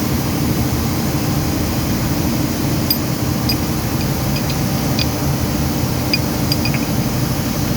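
Steady, loud machinery drone, with a few light metallic clinks of parts or tools between about three and seven seconds in.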